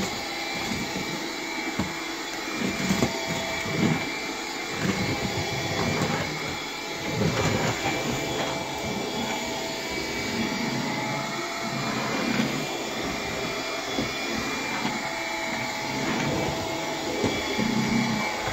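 Bissell PowerGlide cordless vacuum running on low power with the brush roll off: a steady suction noise carrying a high-pitched whine, with occasional knocks as it is pushed over the hard floor. The owner says the raised pitch sounds like a clog, and the vacuum did turn out to be clogged.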